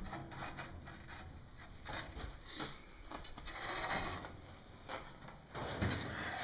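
Torsionator scroll-bending machine working, with an uneven mechanical clatter and creak that swells a few times as it bends a square steel bar into a scroll.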